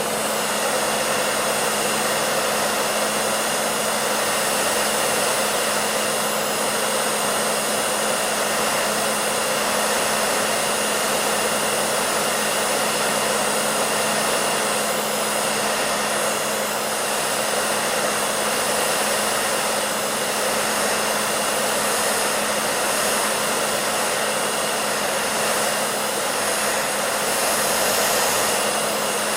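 Hair dryer running steadily: an even rushing of air with a constant motor hum underneath, no change in speed.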